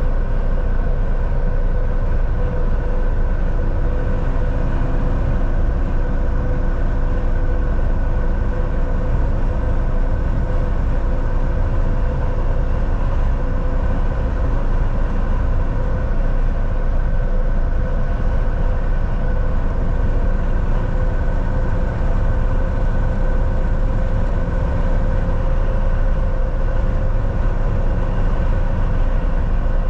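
Cab interior of a Volvo VNL 760 semi truck cruising on the highway: a steady drone of diesel engine and tyre and road noise, with faint steady tones running through it and no change in speed.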